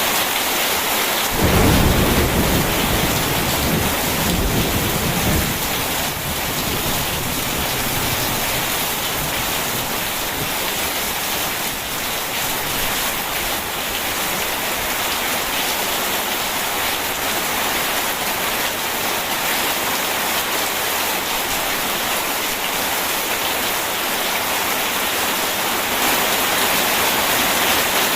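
Steady heavy rain with a clap of thunder about a second and a half in, its low rumble dying away over the next few seconds.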